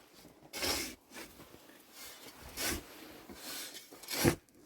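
Several short rubbing, scraping noises, as of objects being handled, with the sharpest one near the end.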